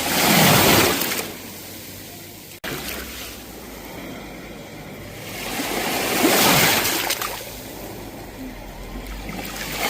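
Sea waves washing onto the shore: two surges of surf about six seconds apart, with a softer hiss of water between them. There is a split-second dropout about two and a half seconds in.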